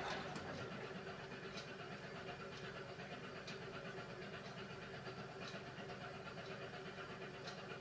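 Beko WMY81283LMB2 washing machine running a hand wash cycle: a steady motor and drum hum, with a light tick about once a second.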